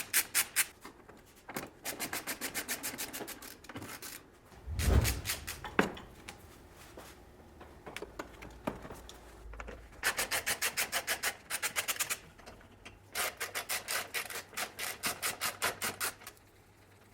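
Ratchet wrench turning fasteners: four runs of rapid, even clicks at about seven a second, with a dull thump about five seconds in.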